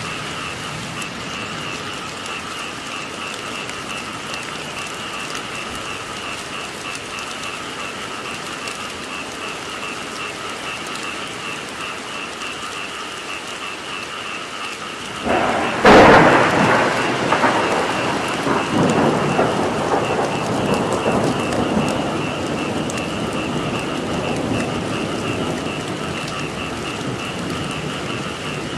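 Steady rain with a frog chorus calling in two high, rapidly pulsing tones. About halfway through, a thunderclap breaks suddenly and rumbles on for several seconds.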